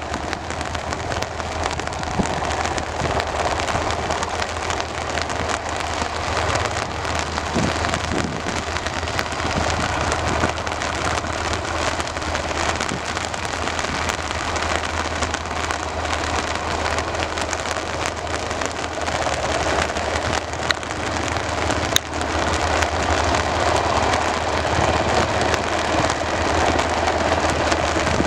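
Steady rain falling, an even hiss of drops with a low steady hum underneath and one sharp click near the end.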